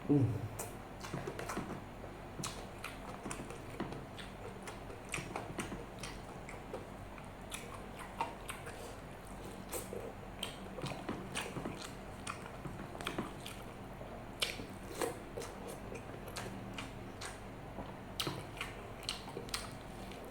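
Close-miked chewing and biting of a mouthful of rice, curry and martabak, with many wet mouth clicks and smacks. A brief low voice sound falls in pitch right at the start.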